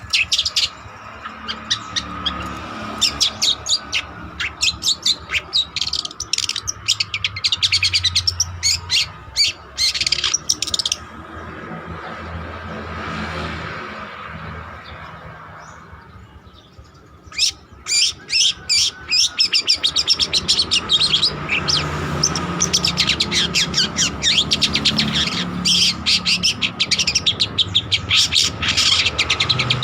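Long-tailed shrike (cendet) in full song: rapid runs of sharp, chattering notes. The song breaks off about eleven seconds in, a soft swelling noise rises and falls in the gap, and the song picks up again around seventeen seconds.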